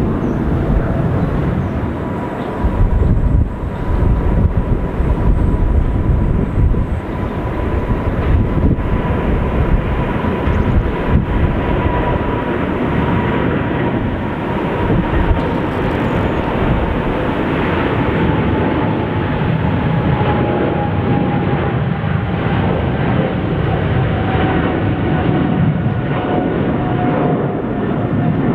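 Jet airliner's engines running at takeoff power: a loud, steady rush of engine noise with a high whine that slowly falls in pitch.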